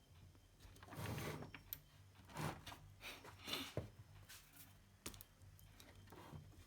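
Small clicks, taps and rustles of wires and hand tools being handled on a workbench, over a faint steady low hum.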